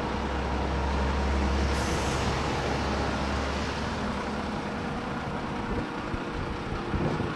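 Diesel engine of a Kalmar DC12-1200 heavy forklift running with a steady low hum, with a short hiss about two seconds in. The low engine note weakens after about four seconds.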